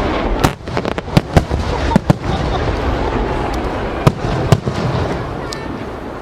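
Aerial fireworks shells bursting: sharp bangs over a continuous rumble and crackle, fading off near the end as the barrage thins out.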